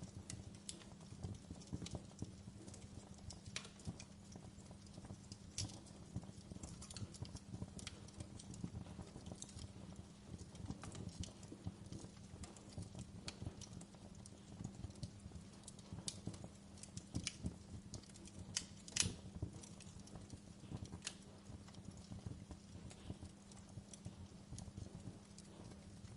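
Wood fire crackling in a fireplace: irregular pops and snaps over a low steady hum. One sharper pop comes about three-quarters of the way through.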